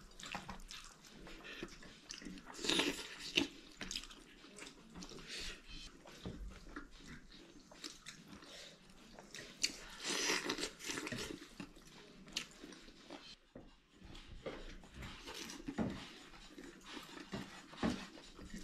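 Close-up chewing and wet lip-smacking of a person eating rice with his fingers, in irregular bursts.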